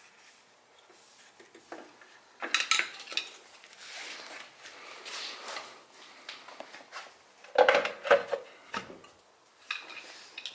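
Metal tools and engine parts clinking and clattering as they are handled, with the loudest clatter about eight seconds in.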